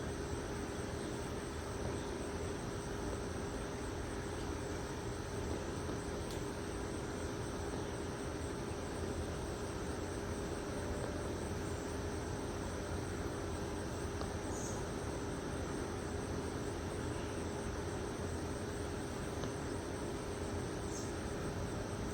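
Steady chorus of crickets trilling without pause, over a steady low hum.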